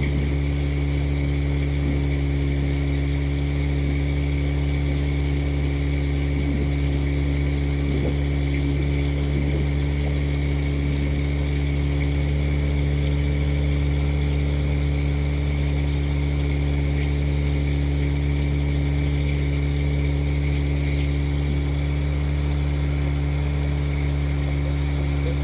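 Motorboat engine running at a steady speed, a constant low drone that does not change.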